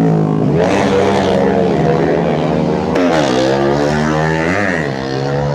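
Tuned 130cc underbone racing motorcycles revving hard at full race pace, their engine pitch repeatedly climbing and dropping through the gears.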